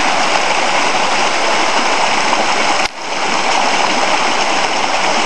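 Waterfall rushing steadily, a loud, even hiss of falling water. It dips briefly about three seconds in, then returns.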